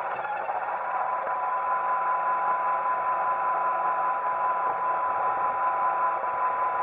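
iRobot Roomba 880 robot vacuum running: a steady noise from its brushes and vacuum motor with a steady whine on top. The whine drops out briefly right at the start.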